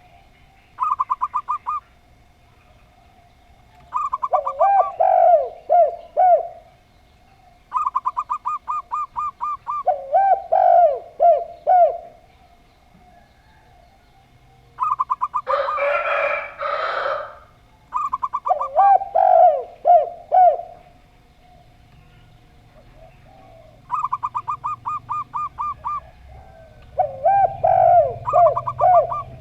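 Zebra dove (perkutut) and spotted dove (tekukur) calling. About six phrases, each a fast stutter of short high notes followed by a few lower, bending coos. A brief rushing noise comes about halfway through.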